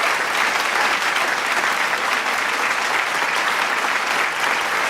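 Large crowd clapping and applauding, a dense, steady wash of many hands.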